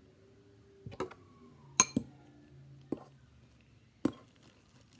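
About five sharp clinks of a utensil against a dish, the loudest a little under two seconds in, over a faint steady hum.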